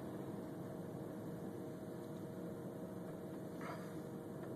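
Steady hiss with a faint, even hum inside a vehicle's cabin.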